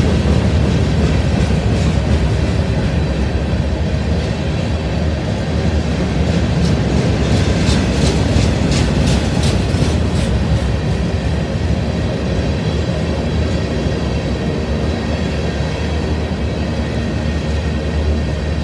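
Train passing close by: a steady low rumble of locomotives and cars. About halfway through comes a quick run of sharp clacks as the wheels cross rail joints.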